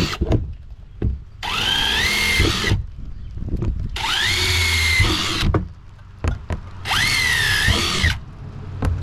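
Power drill run in repeated short bursts of a second or so, each spinning up with a quickly rising whine and then holding steady as it drills drain holes into an old dishwasher's body.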